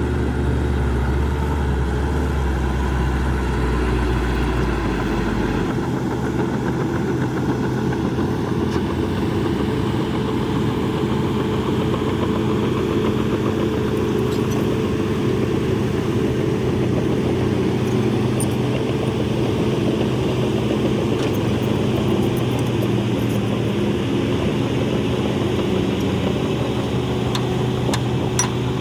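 Heavy diesel engine of a Shantui DH17C2 bulldozer running steadily, with a deep low rumble that drops away about six seconds in.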